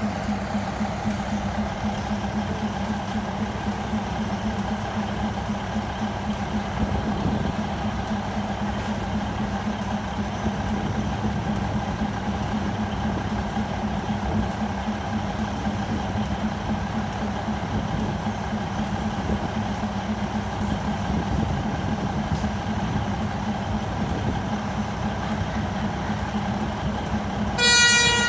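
Diesel train engine running with a steady hum. About a second before the end, the train's horn starts to sound.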